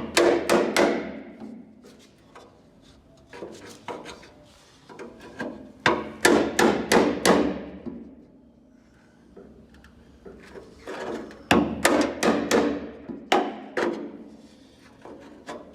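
Hammer driving a thin cold chisel into the hemmed edge of a steel car door, in bursts of several quick metallic blows with short pauses between: the hem is being opened bit by bit to reach the spot welds.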